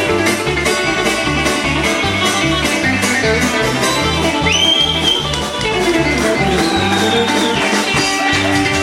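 Country band playing an instrumental break: a guitar lead over a steady bass line and drum beat, with a couple of sliding, bending notes about the middle.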